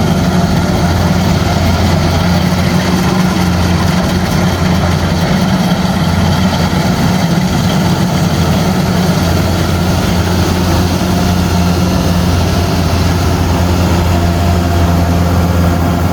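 Combine harvester's diesel engine running steadily at a constant speed, a low, even drone.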